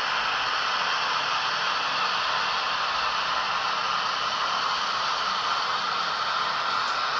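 Märklin H0 model train running slowly on the layout: a steady whirring hiss from its motor and wheels, even and unbroken.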